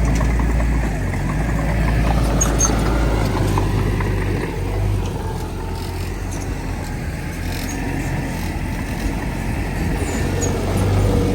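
Heavy diesel engine of earthmoving machinery running, a deep steady drone that eases off about halfway through and picks up again near the end.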